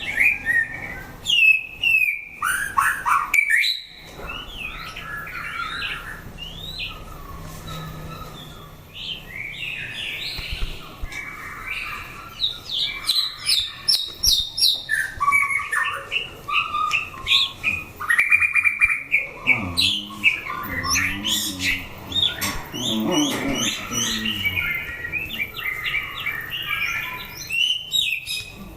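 White-rumped shama singing: a continuous run of varied loud whistled phrases, trills and quick chirps, with brief breaks.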